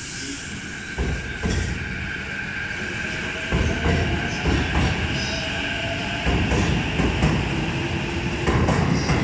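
An electric train running along the station platform, with its wheels knocking over the rail joints and a faint rising motor whine. The rumble and knocks grow louder through the sound.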